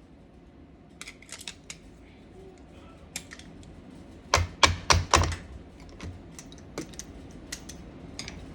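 Irregular clicks and knocks of kitchen utensils being handled, with a cluster of four louder knocks about halfway through.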